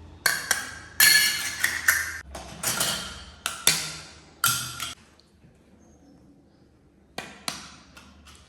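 Hard objects knocking and clicking against each other: a quick run of sharp knocks with short ringing, then a pause and two more knocks near the end.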